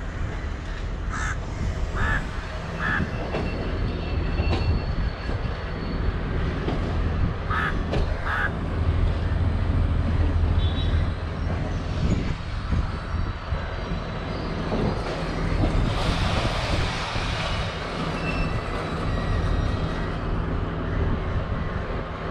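Sri Lankan diesel multiple unit running on the tracks, its engine a steady low hum under the rumble of the coaches. Crows caw over it: three calls in the first few seconds and two more around eight seconds in. A hissing rush rises about sixteen seconds in and fades after a couple of seconds.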